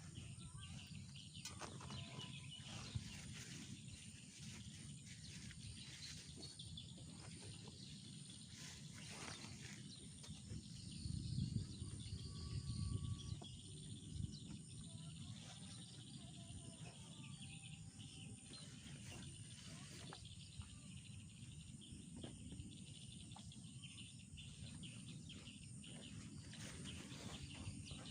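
Faint tropical forest ambience: a steady high insect drone with scattered short bird calls. Some low rumbling rises about eleven to thirteen seconds in.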